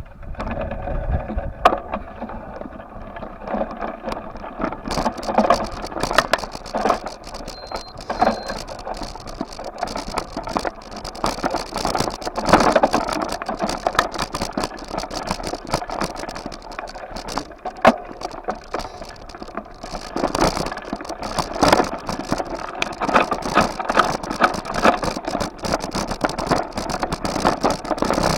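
Ride noise from a bike: a constant rattling with many small knocks, and road noise that swells and fades.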